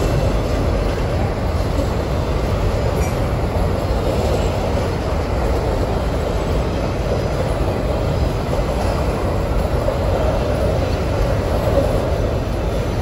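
Freight train's covered hopper cars rolling past at close range: a steady rumble of steel wheels on the rails.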